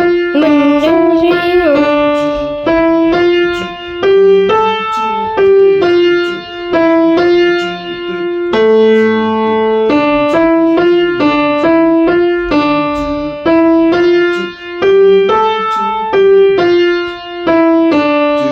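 Piano playing a simple melody note by note at a steady, moderate pace, with a few held lower notes under it.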